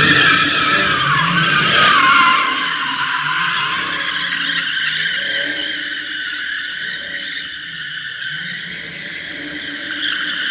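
Car tyres squealing in a long, continuous screech. It starts suddenly, dips in pitch about a second in, then holds fairly steady.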